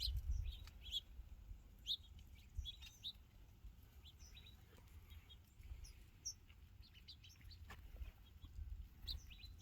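Small songbirds such as sparrows giving short, scattered high chirps and tweets, close by at a feeding spot, over a low rumble.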